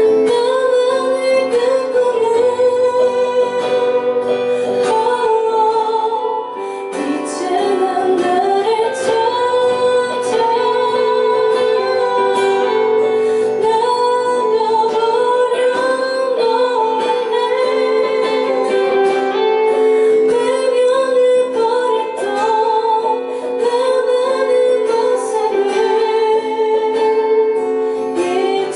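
Indie band playing a song live: a woman singing over guitar accompaniment.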